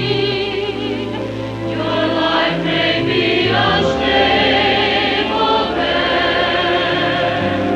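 Church choir singing in several parts, with sustained, vibrato-laden chords over held low accompaniment notes, from a 1985 VHS tape recording.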